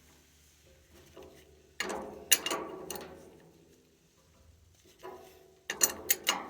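Metal hand tools clinking and knocking as a wrench is fitted and worked on the oil boiler's oil filter housing: a cluster of sharp clanks about two seconds in and another near the end.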